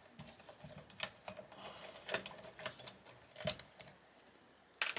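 A few light, sharp clicks and taps, with a brief scrape at about the middle, from parts of a high voltage junction box being handled and worked loose during a teardown.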